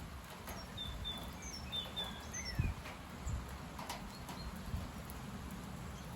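Gusty wind rumbling on the microphone, with small birds chirping in short quick notes over the first few seconds and once more near the fourth second. A few soft knocks stand out from the wind.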